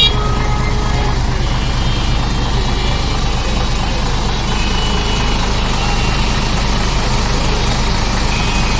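Bus diesel engine running steadily with a deep, constant low drone.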